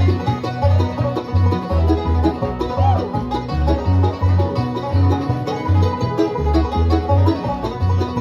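Acoustic bluegrass string band playing an instrumental break, quick plucked picking over a steady bass line that walks between low notes about twice a second.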